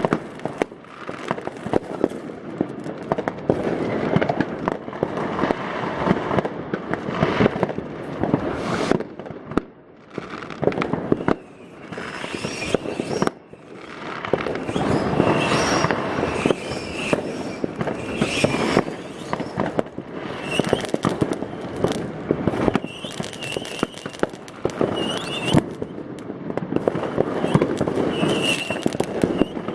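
Many fireworks and firecrackers going off at once: a dense, continuous crackle of bangs with brief lulls about ten and thirteen seconds in. Short whistles join in over the last third.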